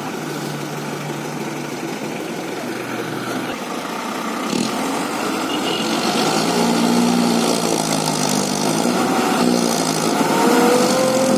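Motor vehicle engine running, then growing louder about halfway through as it revs, its pitch shifting up and down.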